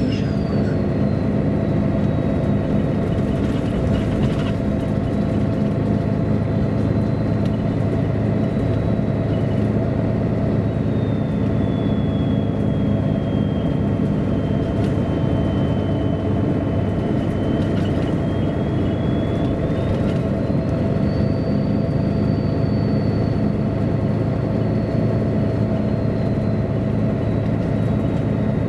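A 1999 MAN A23 NG313 articulated diesel city bus under way, heard aboard: the engine and drivetrain drone steadily. A thin high whine runs above it, sinking slowly in pitch and then rising again about two-thirds of the way through.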